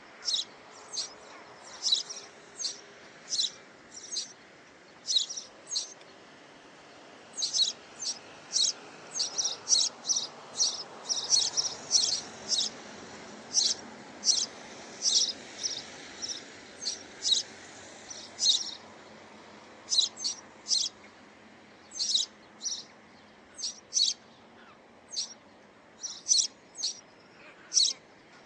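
A bird chirping over and over in short, high chirps, coming in quick runs with brief pauses between them, over a faint steady background noise.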